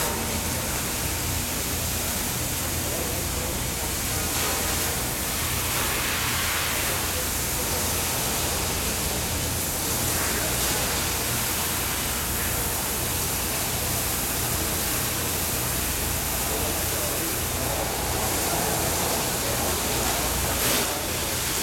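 Fire hose nozzle spraying water in a steady, unbroken rush, over the steady low hum of the motor-driven pump that feeds the hose.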